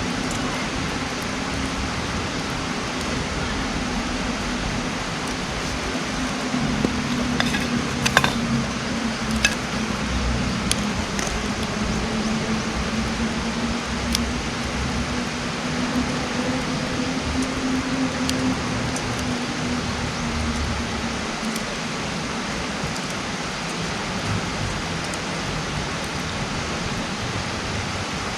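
Wood campfire burning with a steady hiss and a few sharp crackles and pops between about seven and fourteen seconds in. A faint low hum underneath fades out about twenty seconds in.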